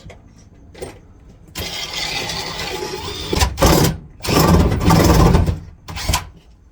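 Power drill boring a hole through wood framing, run in several bursts: a steady run, then two louder pushes and a short final burst.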